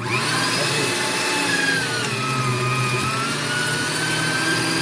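AARTVARK TEES electric meat grinder switched on and running with a steady motor whine. Its pitch sags about two seconds in as the motor slows under the load of meat being fed through, then partly recovers.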